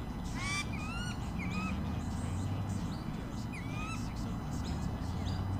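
Bird calls: a series of short, upward-curving chirps and whistles, several in quick succession in the first two seconds and more around four seconds in, over a steady low rumble.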